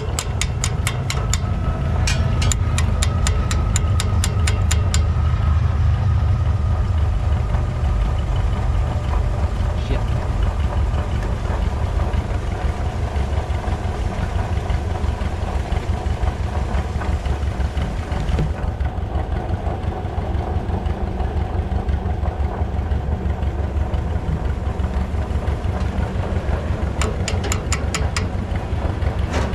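John Deere 60 two-cylinder tractor engine idling steadily on stale gas from its varnished, leaking carburetor. A rapid ticking, about four a second, runs over the first few seconds and comes back briefly near the end.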